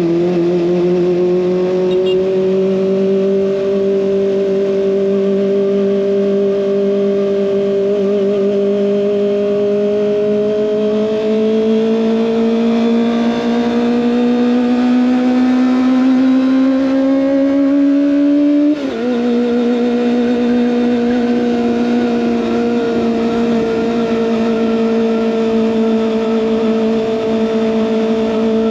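Kawasaki ZX25R's 250 cc inline-four engine through an SC Project exhaust, its note climbing slowly and steadily in revs for about eighteen seconds. It then drops sharply at a gear change and holds a steady cruise.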